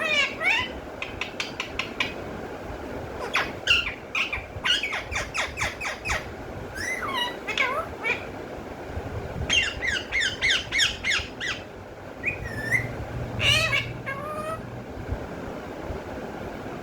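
Pet parrot squawking and chattering in repeated bursts of short calls that slide up and down in pitch, going quiet for the last couple of seconds.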